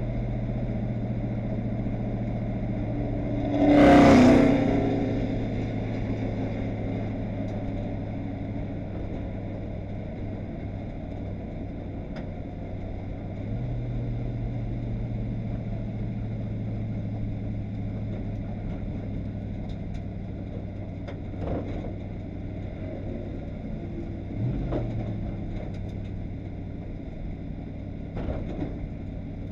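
Stock car's V8 engine running at low, steady revs, heard from inside the cockpit, with one loud rushing burst about four seconds in and a few small knocks later on.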